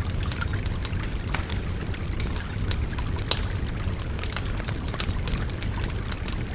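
Wood bonfire crackling with frequent sharp pops, one louder pop about three seconds in, over the steady babble of a flowing river.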